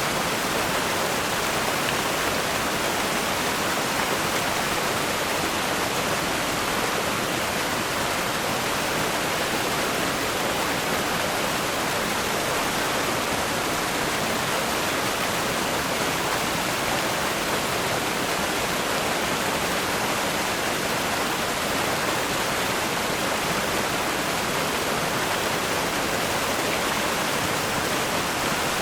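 Rushing river rapids: strong water flowing and crashing over rocks in a steady, even rush.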